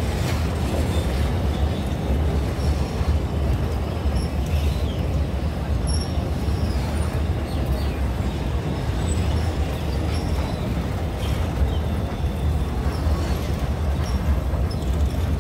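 Passenger train running steadily along the line, heard from on board: a continuous rumble of wheels on track.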